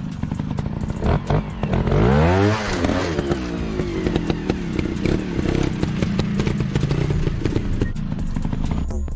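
Dirt-bike engine sound revving, climbing and then dropping in pitch about two seconds in, with scattered clattering clicks throughout.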